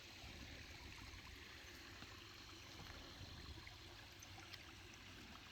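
Faint, steady rush of running water, swollen by heavy rain.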